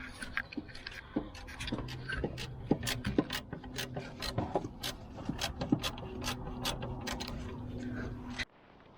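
Socket ratchet clicking in uneven spurts as a drain plug or bolt under an old excavator is worked loose, over a steady low hum. The sound cuts off suddenly near the end.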